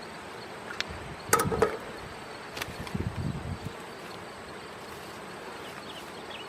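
Honeybees buzzing steadily around a hive, with a few knocks and clatters from equipment being handled, the loudest about a second and a half in.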